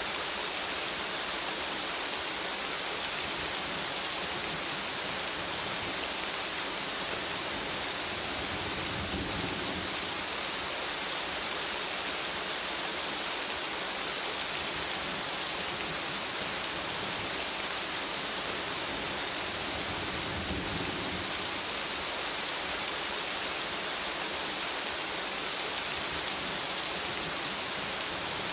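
Steady rain falling on forest foliage, an even hiss, with two brief low rumbles, one about a third of the way in and another about two-thirds in.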